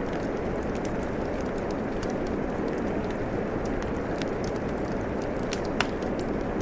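Steady rain hiss together with a wood fire crackling: scattered sharp pops, one louder pop near the end.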